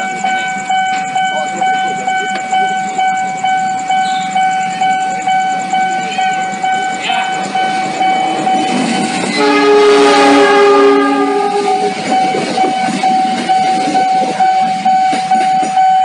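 A level-crossing alarm bell rings steadily, pulsing about twice a second, as an Indonesian locomotive-hauled passenger train passes at speed. The locomotive's horn sounds one blast of about two seconds, about nine seconds in, over a rush of wheel and rail noise that swells as the train goes by.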